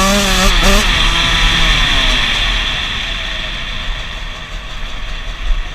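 Dirt bike engine revving briefly near the start, then getting steadily quieter, over a constant rush of wind noise.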